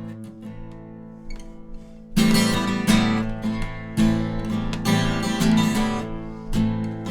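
Acoustic guitar playing the instrumental intro of a song: a few quiet held notes, then about two seconds in, louder strummed chords start, struck in a repeating rhythm.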